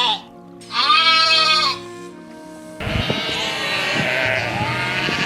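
Livestock bleating: one bleat lasting about a second, over background music with steady held notes. About three seconds in the background turns noisier and several bleats overlap.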